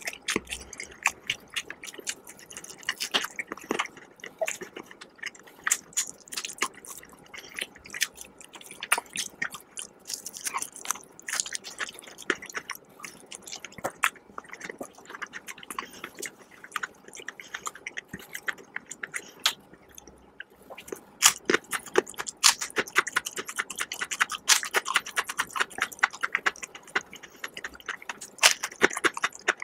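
Close-miked chewing and crunching of crispy fried chicken, a dense run of crackly bites that grows louder in the last third.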